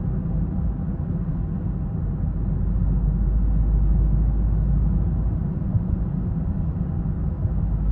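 2020 BMW 330i, with its 2.0-litre turbocharged four-cylinder, being driven: a steady low rumble of engine and road noise that swells a little a few seconds in.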